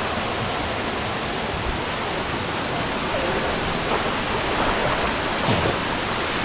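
Waterfall pouring into its pool, heard close: a steady, even rush of falling water.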